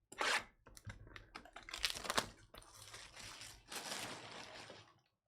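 Trading cards being flipped and slid through by hand: a quick series of light card clicks and paper-like rustles, with a longer rustle in the second half.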